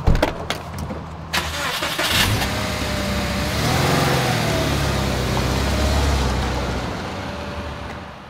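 A car engine starting and running, its pitch rising and falling briefly as it revs. A few sharp clicks and clunks come just before it starts.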